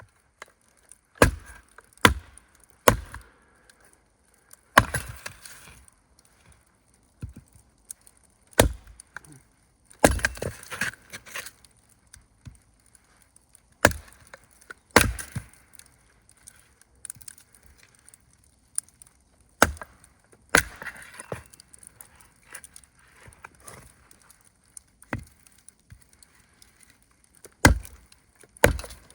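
Wood being chopped with sharp single blows at uneven intervals, one to four seconds apart. Some blows are followed by splintering crackles.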